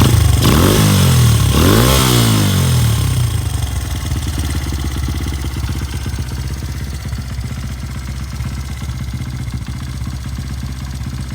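Honda Ape 100's single-cylinder four-stroke engine, fitted with an aftermarket muffler, blipped twice in the first few seconds, then settling into a steady idle.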